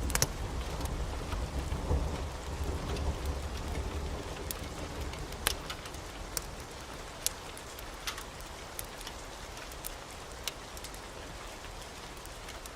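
Steady heavy rain hiss, with a low thunder rumble that fades away over the first few seconds. Scattered sharp clicks and pops sound over the rain.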